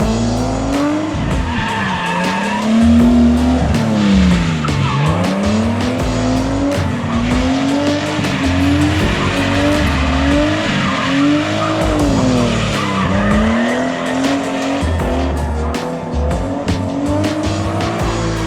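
Drift car's straight-six engine revved hard again and again, its pitch climbing and dropping every second or two as the car is thrown through corners, with tires squealing in the slides.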